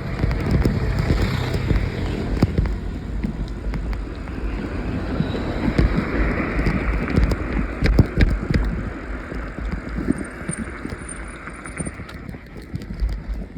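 Riding in a motor vehicle over a bumpy road: a low engine rumble with frequent knocks and rattles, and wind buffeting the microphone.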